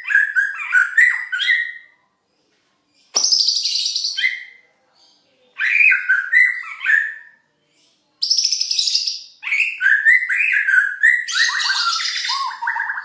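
Caged songbird singing four bursts of quick warbled notes mixed with scratchy, higher notes, the last burst the longest. It is a learned song phrase that the owner identifies as an imitation of the belalang emas sound, picked up under a previous owner.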